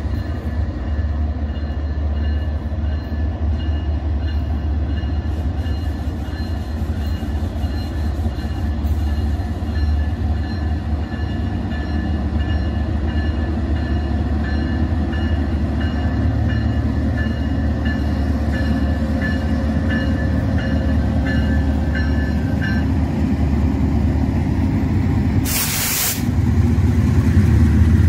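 Diesel freight locomotives rumbling deep and steady as a long freight train approaches, growing louder as it draws close. A faint, high, pulsing ring sits over the rumble until about two-thirds of the way through, and there is a brief loud rush near the end.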